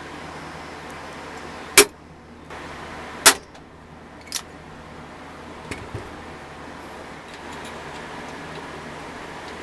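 Two sharp clicks about a second and a half apart, then a few fainter taps, over a steady background hum.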